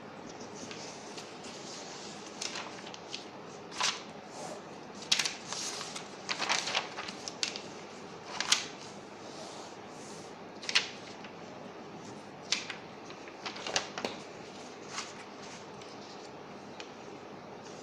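A sheet of paper being folded and creased by hand: irregular short crinkles and sharp rustles, some in quick clusters, over a steady background hiss.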